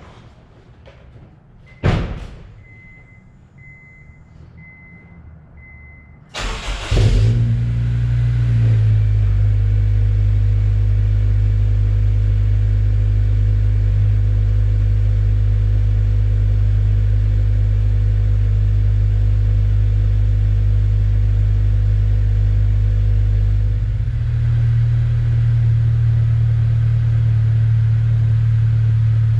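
A knock about two seconds in, then a faint repeating chime. A few seconds later the 2003 Acura RSX Type-S's four-cylinder engine cranks and catches, runs briefly at a raised speed, then settles into a steady idle through an HKS Hi Power cat-back exhaust. The idle note changes slightly near the end.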